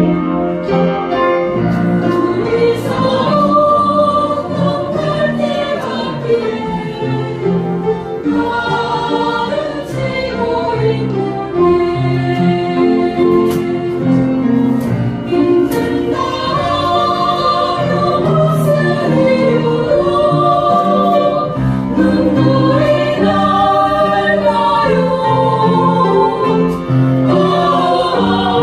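Mixed choir singing a slow song in two parts, sustained voices gliding between held notes.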